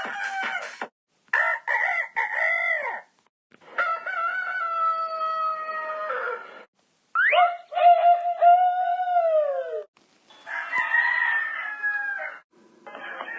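Rooster crowing, a series of six separate cock-a-doodle-doo calls cut one after another with brief silences between. Each lasts one to three seconds, and the longer ones fall in pitch at the end.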